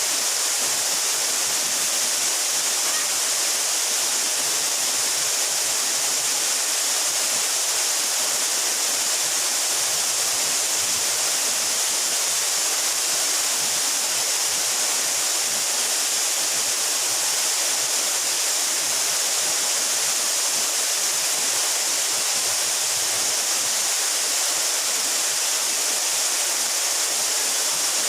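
A 12-metre mountain waterfall pouring steadily: an even, unbroken rush of falling water, bright and hissy.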